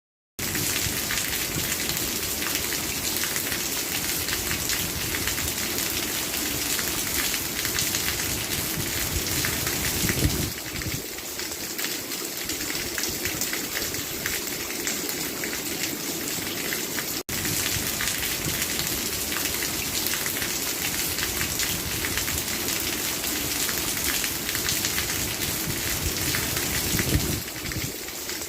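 Steady rain falling, a dense even hiss that starts abruptly just after the beginning and cuts out for an instant about two-thirds of the way through.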